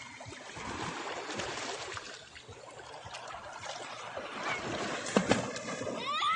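Water splashing and lapping, with a few sharp knocks about five seconds in; a high-pitched voice calls out briefly at the very end.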